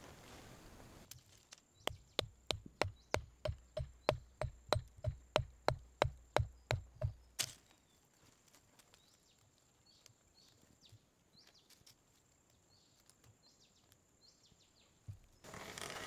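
Wood being chopped with a hand tool: a fast, even run of about eighteen strikes, roughly three a second, ending in one sharper strike.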